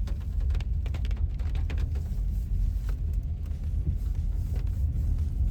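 Steady low road rumble of a car heard from inside the cabin as it drives slowly on a wet road, with scattered light clicks over the first few seconds.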